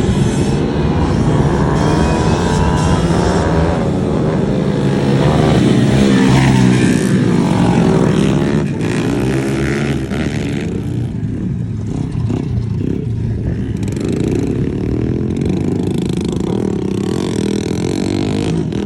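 Small minibike engine running and revving, its pitch rising and falling, loudest about six seconds in and easing back after about eleven seconds.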